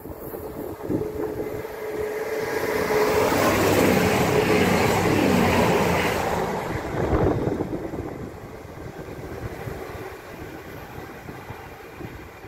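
CrossCountry Class 220 Voyager diesel-electric multiple unit passing at speed. Its noise builds to a peak a few seconds in, its engine tones drop in pitch as it goes by, and then it fades away.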